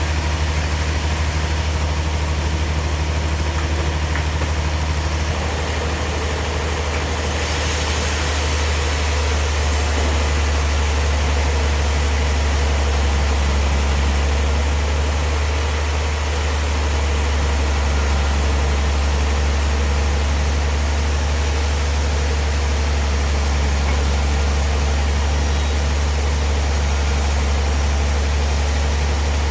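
Sawmill machinery running steadily with a deep, constant hum. A brighter hiss joins about seven seconds in.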